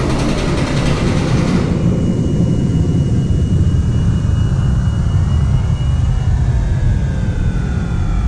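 Large twin Detroit Diesel standby generator, each engine turbocharged and supercharged, running with a loud, deep, steady rumble. About two seconds in, a high hiss drops away and several whines rising in pitch come in, with a steady high tone held for a few seconds.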